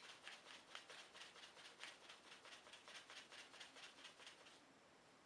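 Faint, rapid rustling of a folded-paper origami flapping bird's wings being flapped, about five soft strokes a second, stopping near the end.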